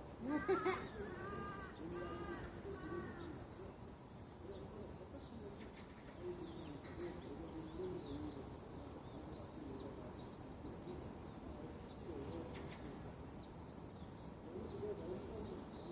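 Birds calling in the morning. A loud call comes about half a second in, followed by a run of four arched, repeated notes, while lower wavering calls go on throughout.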